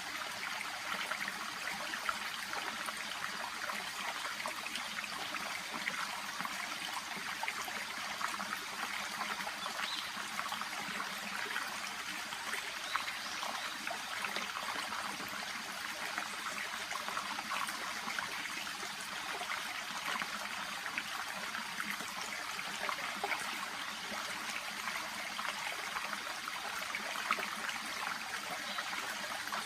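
A small, shallow brook babbling steadily: an even rush of running water dotted with many tiny splashes.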